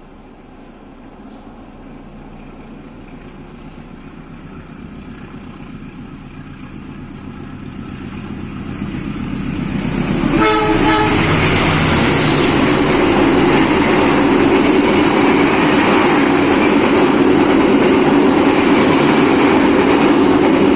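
Bogowonto passenger train with stainless steel coaches approaching, its rumble growing steadily louder. About ten seconds in it gives a short horn blast, then runs past close by with loud, steady wheel and rail noise.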